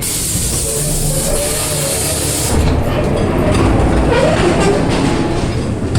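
Ghost train dark-ride car rumbling along its track, with a loud hiss over the first two and a half seconds.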